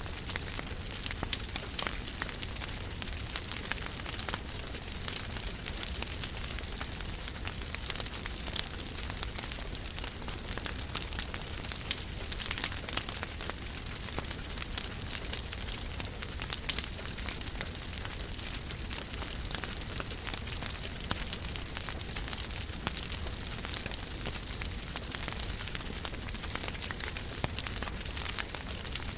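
Wood fire crackling in a fireplace: a steady hiss strewn with many small crackles and a few louder pops, the sharpest about twelve seconds in.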